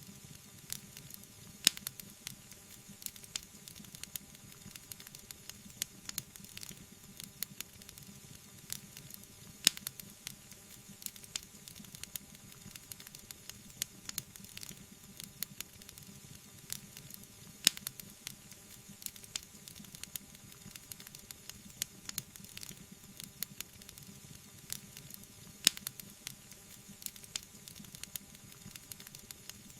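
Wood fire burning, with steady hissing and frequent small crackles, and a louder pop about every eight seconds.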